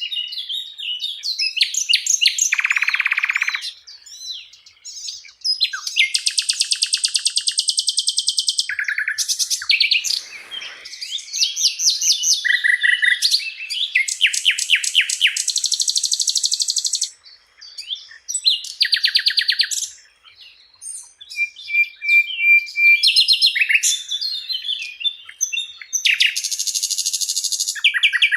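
Sikatan londo flycatcher singing a long, varied song of rapid trills, buzzy rattles and sharp chirping notes, phrase after phrase with only brief pauses.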